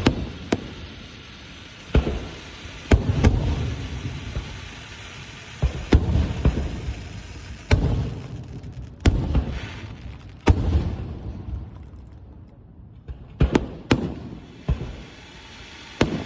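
Fireworks bursting one after another: about a dozen sharp bangs at irregular intervals, each trailing off in a rumbling echo, with a short lull near the end.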